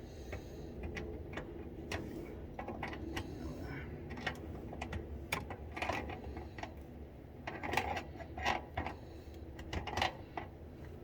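Irregular metal clicks and clinks of pliers working on table-assembly hardware, a nut and washer being turned and tightened. The clicks come a few a second, louder and more frequent in the second half.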